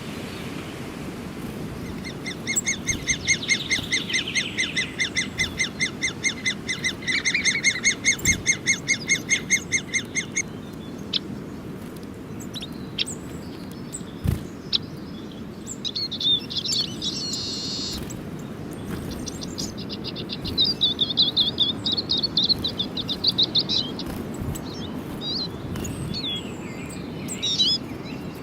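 Small birds chirping and calling, with a long fast run of evenly repeated notes in the first third and shorter bursts of repeated chirps later, over a steady low outdoor background noise.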